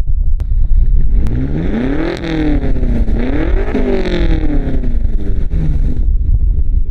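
2019 BMW X6M's twin-turbo V8 running through a Valvetronic Designs valved exhaust. Its note climbs and falls back twice as the car accelerates and eases off, over a steady low rumble.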